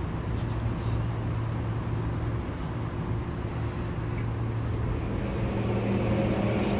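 Saitama Railway 2000 series electric train running in the subway tunnel, heard inside the car: a steady rumble with a low hum, and a second, higher steady tone joining about five seconds in.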